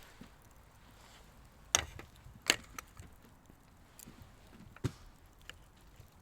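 Chopping on wood: three sharp knocks, one a little under two seconds in, another under a second later, and a third near five seconds, with a few fainter taps between.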